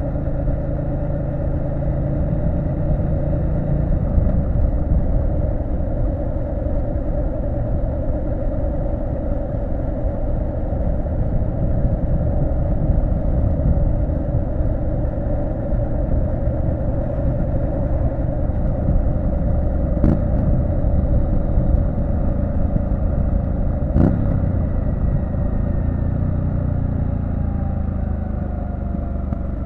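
Triumph Street Scrambler 900's parallel-twin engine running steadily under way, with wind and road noise. Two sharp knocks about two-thirds of the way through, and the engine note eases down near the end.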